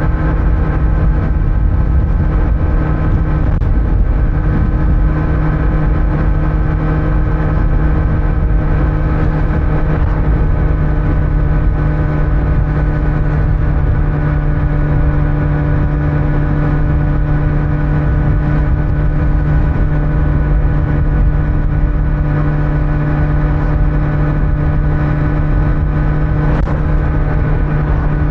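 Kawasaki Z900's inline-four engine with stock exhaust, running at a steady engine speed while cruising, with an unchanging engine note over low road rumble.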